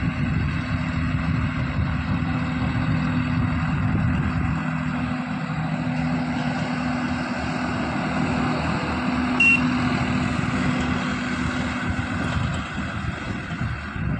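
Swaraj 969 FE tractor's diesel engine running steadily under way, with a short high-pitched beep about nine and a half seconds in.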